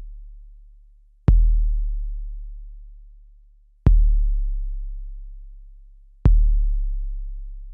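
A deep bass kick drum sample played back from an Akai MPC sampler, struck three times about two and a half seconds apart. Each hit is a sharp click followed by a long, low boom that slowly dies away.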